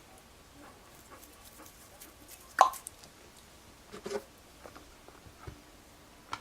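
Dog having its teeth brushed: scattered small clicks and mouth sounds from the brush and the dog's mouth, with one sharp short sound about two and a half seconds in and a smaller one about four seconds in.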